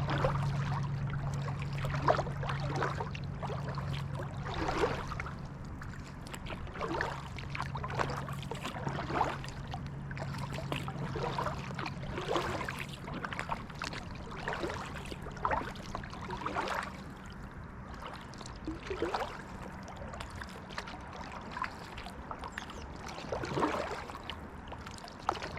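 Kayak paddle blades dipping and pulling through calm creek water, a splash and dribble of drips on each stroke, one every second or two. A low steady hum runs under the first half and fades out.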